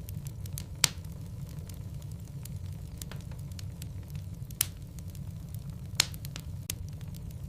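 Wood fire burning in a fireplace: a steady low rumble of the flames with irregular sharp crackles and pops from the logs, three louder pops about a second in, past halfway and near the end.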